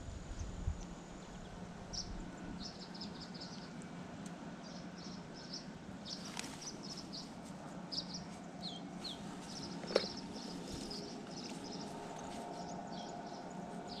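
Small birds chirping in quick runs of short, high calls, with a couple of falling notes, over a faint steady hum. A single sharp click comes about ten seconds in.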